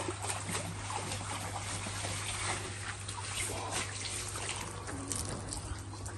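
Water trickling with small irregular splashes, over a steady low hum.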